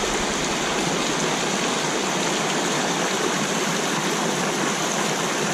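Steady rush of a small mountain headwater stream's flowing water.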